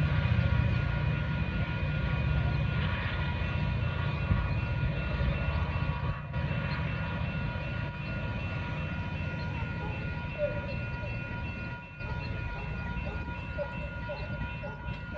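Metra commuter train running past out of view and fading away: a low rumble that slowly dies down, with several steady high tones ringing over it.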